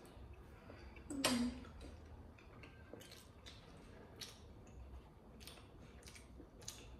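Mouth sounds of two people chewing steamed momo dumplings: soft wet smacks and scattered small clicks. About a second in there is one louder smack with a short hum.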